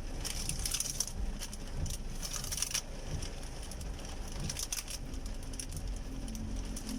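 Steady low rumble inside a moving car's cabin, with scattered small clicks and rattles of objects being handled.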